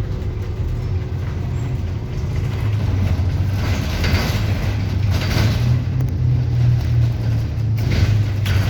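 City bus engine running with road noise, heard from inside the bus. The low hum grows louder about two and a half seconds in, and a few short rushes of higher noise come and go over it.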